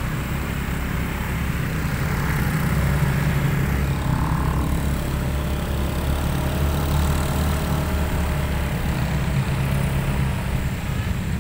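Motorcycle engine running at low speed in slow, busy traffic: a steady low drone with road and wind noise over it.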